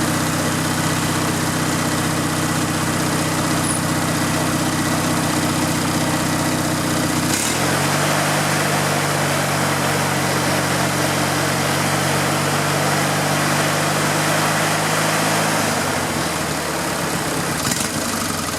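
Riding lawn mower engine running nice and steady. About seven seconds in it speeds up to a higher, steady note, and near the end it drops back down to a lower speed.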